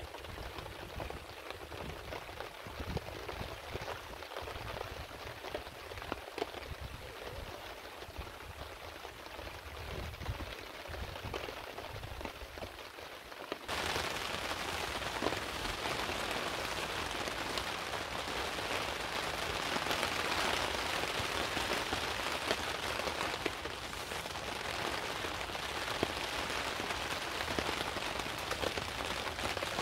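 Heavy rain falling as a steady hiss of many drops; about halfway through it abruptly gets louder and brighter.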